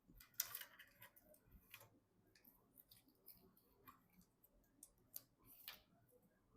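Faint, scattered clicks and light taps of small computer parts being handled during a PC build, with the sharpest click about half a second in and another near the end.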